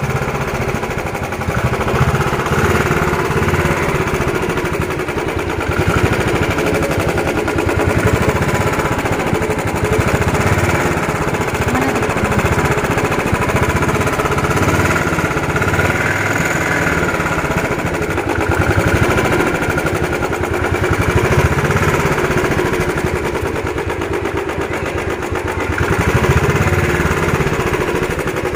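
Royal Enfield Bullet 350's single-cylinder engine being revved over and over, its thumping exhaust note rising and falling in repeated swells.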